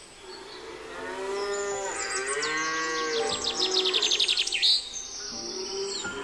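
Cattle mooing in long, drawn-out calls through the first half, while a bird gives a rapid trill from about three seconds in. The trill is the loudest sound and ends in a short falling call.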